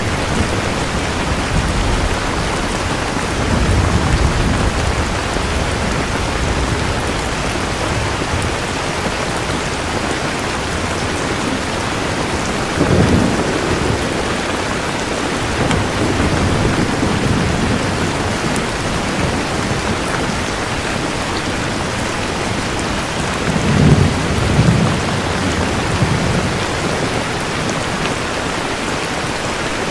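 Steady heavy rain, with low rolls of thunder rumbling several times: a few seconds in, near the middle, and more strongly toward the end.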